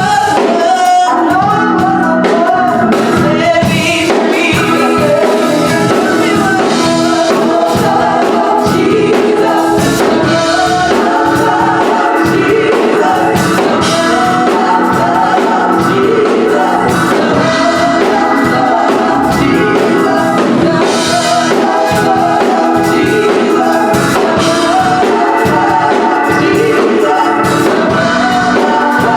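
Gospel praise team singing a worship song in harmony, several voices together over a steady instrumental accompaniment with a beat.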